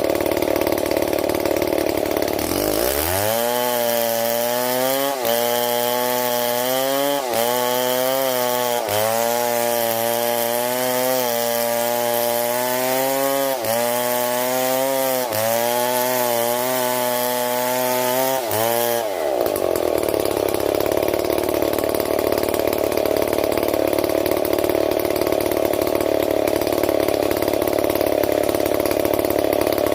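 STIHL MS 070 two-stroke chainsaw running at high revs as it cuts wood. Through the middle stretch the engine note dips and recovers every second or two as the chain bites and bogs under load. Near the start and again later the sound turns to a dense rasp of chain cutting.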